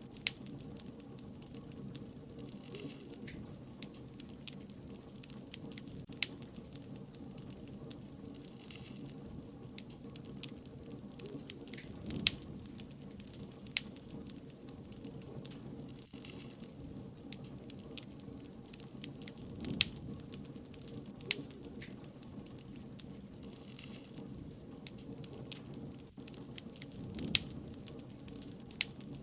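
Bonfire crackling: sharp, irregular pops and snaps of burning wood over a low, steady rumble from the flames.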